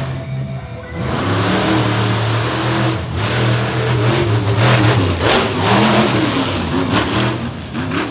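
Monster truck engine revving hard, its pitch rising and falling again and again, with bursts of harsh noise from about three seconds in.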